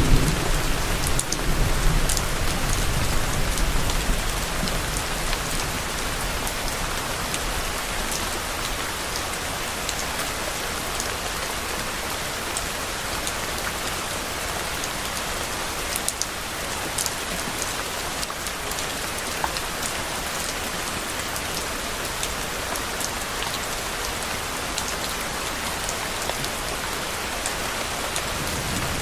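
Steady rain falling and pattering on a surface, with a few sharp drop ticks. A low thunder rumble fades away over the first few seconds.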